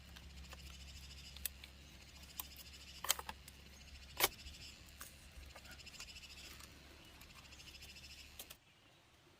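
A steady chorus of rapidly pulsing animal calls, with a few sharp clicks and knocks; the chorus cuts off suddenly near the end.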